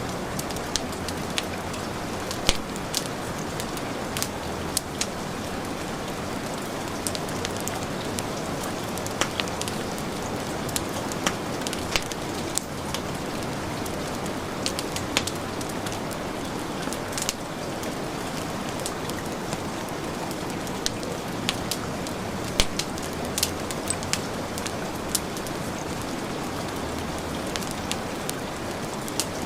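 Heavy rain falling as a steady hiss, mixed with a wood fire crackling, its sharp pops and snaps coming irregularly every second or so.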